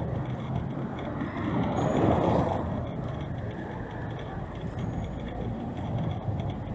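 City street traffic: a steady hum of vehicles, with one passing vehicle swelling up about two seconds in and fading away.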